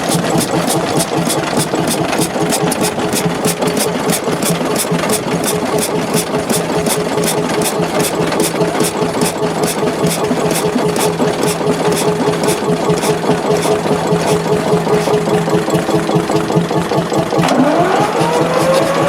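Early-20th-century Gysons & Co. stationary engine running with a steady, rhythmic beat. Near the end a whine rises steeply in pitch.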